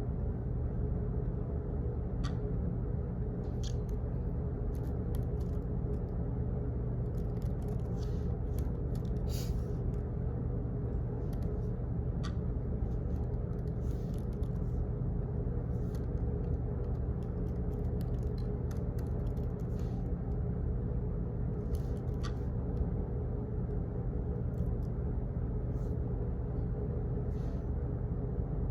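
Steady low office background rumble and hum, with scattered light clicks and taps at irregular intervals.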